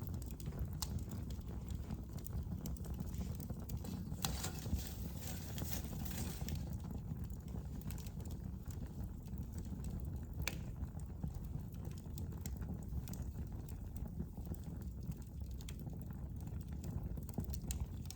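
Wood fire burning in a fireplace: a steady low rumble of flames with scattered crackles and pops, a sharper pop about ten seconds in.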